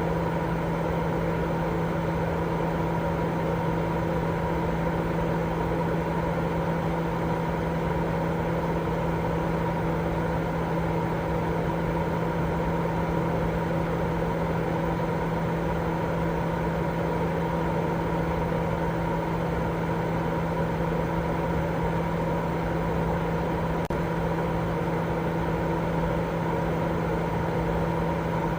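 Continuous white-noise sleep sound: an even, unchanging rushing hiss that is heaviest in the low and middle range and thins out in the highs. A steady low hum runs through it.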